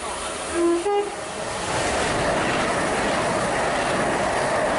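Gatwick Express electric train sounding a short two-tone horn, a lower note then a higher one, as it approaches, then the loud steady rush of the train passing at speed.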